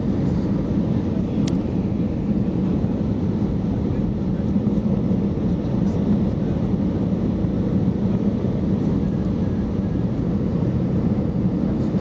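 Airbus A320 airliner noise: a steady low rumble of engines and airflow with no change in pitch or level, with one faint click about a second and a half in.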